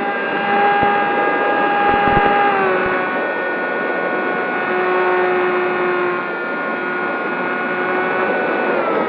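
Electric motor and propeller of a Zohd Talon GT Rebel RC plane whining in flight, steady in pitch. The pitch drops twice, about two and a half seconds in and again near the end.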